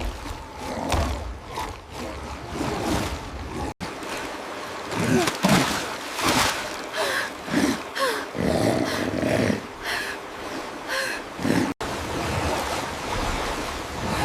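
Animal roars and growling calls over a steady rushing noise. The sound drops out abruptly for an instant twice.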